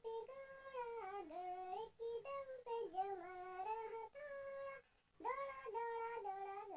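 A child's high voice singing a Hindi nursery rhyme in short melodic phrases, with a brief pause about five seconds in.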